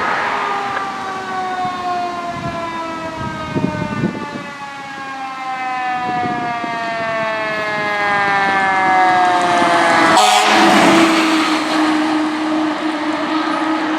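2020 Sutphen fire engine's siren wailing, its pitch falling slowly and smoothly for about ten seconds as it winds down. About ten seconds in, a steady low horn blast starts and holds to the end.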